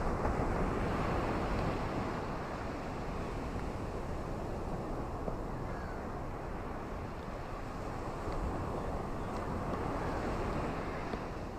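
Ocean waves washing onto a beach: a steady rush of surf that swells during the first couple of seconds, eases, and builds again about eight seconds in.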